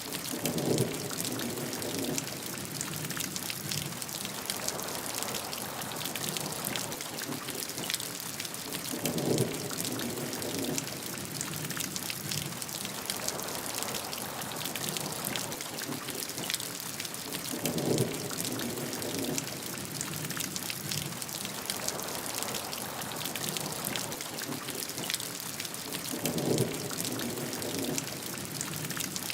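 Steady heavy rain, an even hiss full of fine drop patter. A deeper swell rises out of it about every eight to nine seconds, four times in all.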